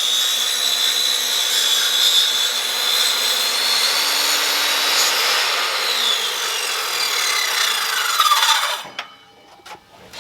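Electric power saw cutting through a 2x12 yellow pine board, its motor whining steadily. Over the last few seconds the motor pitch falls, and the saw stops about nine seconds in.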